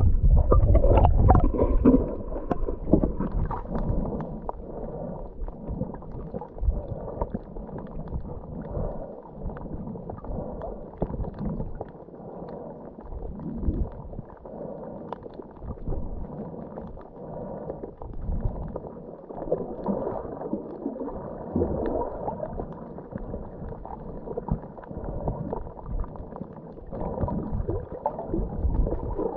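Muffled underwater gurgling of a scuba diver's breathing through a regulator, exhaled bubbles rushing out in swells every several seconds. The loudest rush of bubbles comes right at the start.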